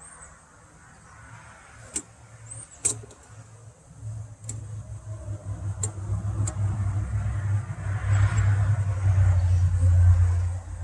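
A few sharp clicks and knocks from wooden beehive parts being handled, then a loud, low rumbling drone that builds from about four seconds in and holds.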